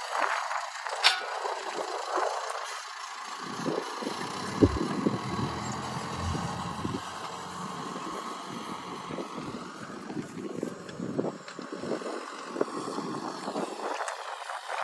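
A vehicle engine running steadily, with gusts of wind rumbling on the microphone. A sharp click comes about a second in, and a knock a little before the middle.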